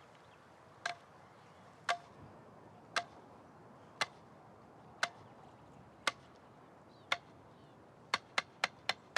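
Clapsticks struck in a slow steady beat, about once a second, then quickening to about four strikes a second near the end.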